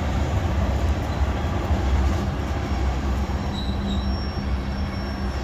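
Freight train cars rolling past: a steady rumble of steel wheels on the rails. Faint high wheel squeals come a few times near the end.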